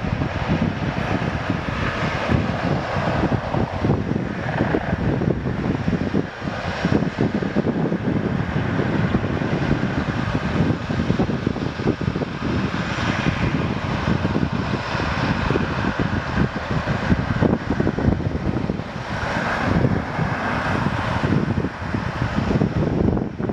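Boeing 777-300ER's GE90 turbofan engines running steadily at low thrust, mixed with gusty wind noise on the microphone.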